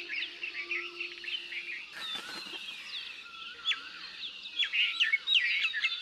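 Many small birds chirping and twittering in quick, overlapping calls. A low held musical note fades out about two seconds in.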